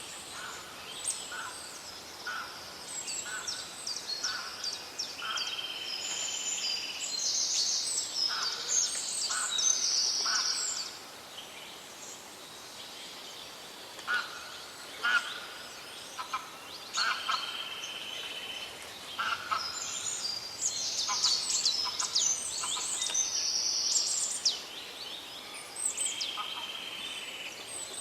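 Several songbirds singing at once: quick high chirps and trills overlapping throughout, a clear whistled note held for about a second three times, and series of short, lower repeated notes.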